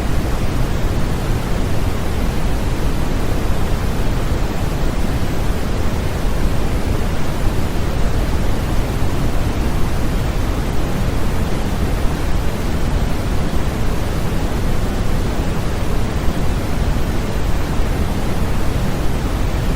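Steady generated white noise used as a baby sleep aid: an even, unbroken hiss, heavier in the low end than in the highs.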